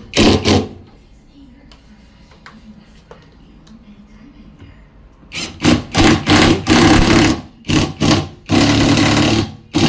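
Power impact driver run in short trigger pulls, briefly at the start and then repeatedly about halfway through, ending in one longer run of about a second, driving screws into a washing machine.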